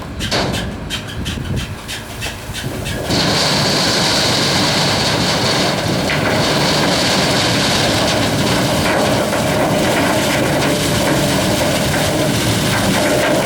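Tractor engine running, then about three seconds in it revs up into a much louder, steady din as the tractor tips its load of sugarcane into a narrow-gauge cane train wagon.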